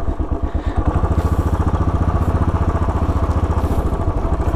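Royal Enfield Bullet 500's single-cylinder four-stroke engine running with an even run of firing pulses. It gets louder about a second in as the bike gets under way.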